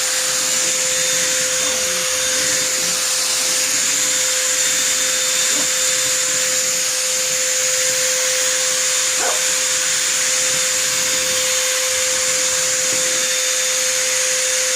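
Vacuum cleaner motor running steadily with a constant whine and hiss. A dog makes a couple of short, faint vocal sounds, about a third of the way in and again past the middle.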